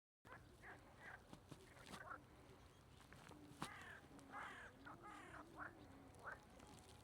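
Faint birds calling over and over in short repeated calls, with a low wavering note briefly about four to five seconds in.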